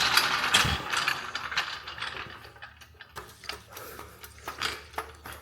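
A jack is worked to lift the wood splitter, giving metallic ratcheting clicks. It starts as a loud, dense clatter, then the clatter thins out into separate clicks a couple of times a second.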